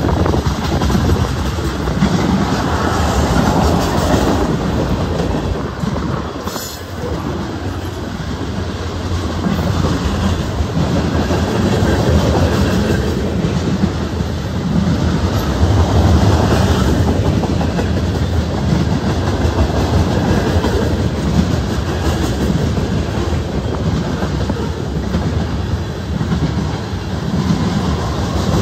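CSX freight train of tank cars rolling past close by: steady noise of steel wheels on the rails, dipping briefly a few seconds in.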